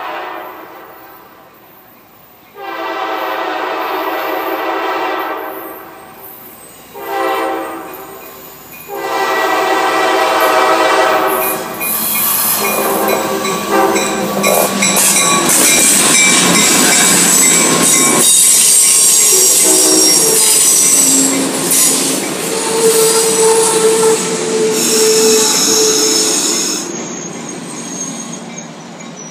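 Amtrak passenger train led by an EMD F59PH diesel locomotive sounding its horn for a grade crossing: a long blast, a short one, then a long blast held as it reaches the crossing. The train then passes close by, loud, with its wheels squealing as it arrives at the station.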